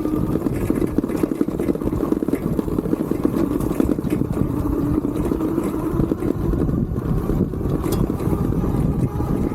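A 750 W geared rear hub motor on a fat-tire electric bike whining steadily under power, the pitch wavering a little, over a dense rumble from the tyres and frame on rough ground.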